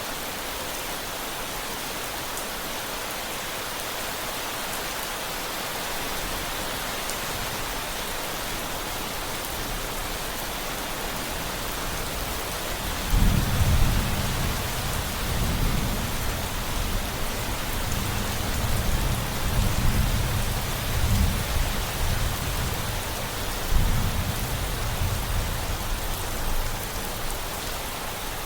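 Steady rain falling, with a long low rumble of thunder that comes in about halfway through, surges several times, and fades out near the end.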